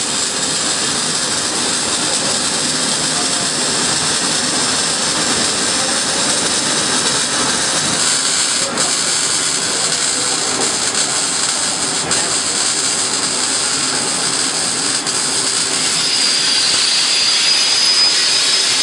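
Loud, steady hissing noise, with a thin high whistle coming in partway through and a second, slightly rising whistle near the end.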